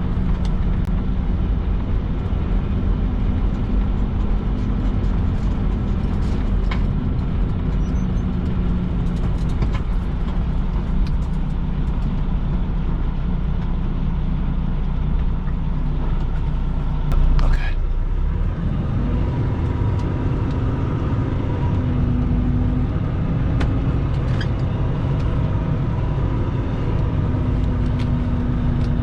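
Semi truck's diesel engine running steadily, heard from the cab while the truck is manoeuvred at low speed. About two-thirds of the way through there is a short loud burst, after which the engine holds a slightly higher note.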